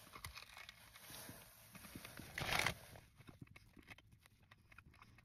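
A person chewing a bite of chocolate chip cookie with Mini Eggs: faint, irregular mouth clicks, with one short, louder noise about two and a half seconds in.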